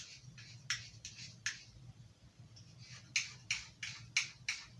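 Carving-knife blade being stroked across a piece of Arkansas whetstone: short scraping strokes, a pause of about a second and a half, then quicker strokes at about three a second near the end.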